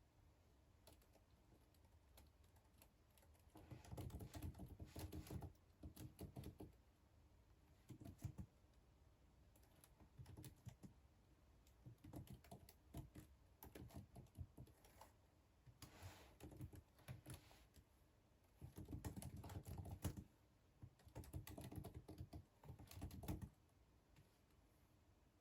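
Computer keyboard typing in short runs of rapid key clicks, each a second or two long, with pauses of a few seconds between them.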